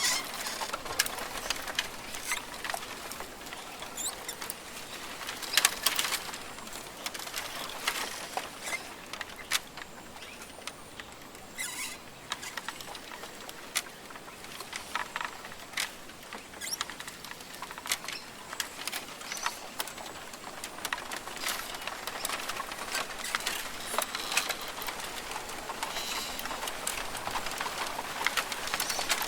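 Rainforest ambience: many irregular small clicks, taps and rustles, in clusters now and then, over a steady hiss.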